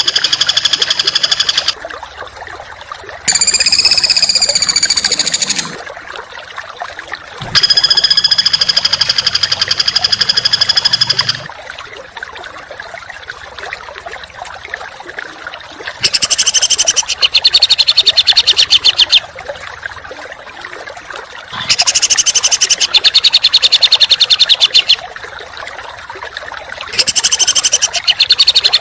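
Songbird masteran recording: loud bursts of dense, harsh, rapid-fire chattering trills, each a few seconds long, six in all, separated by short quieter pauses.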